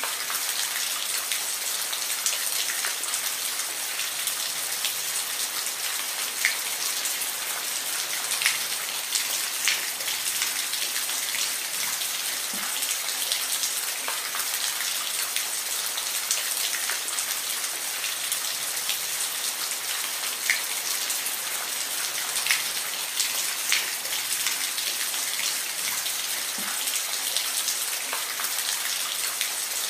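Steady rain falling, an even hiss with scattered sharper drips of single drops landing on a surface.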